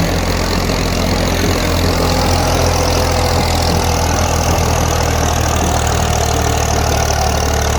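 Massey Ferguson 240 tractor's three-cylinder diesel engine running steadily under load, pulling a disc harrow.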